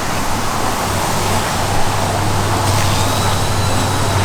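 Steady car road and engine noise with a constant low hum, as heard from inside a moving car's cabin.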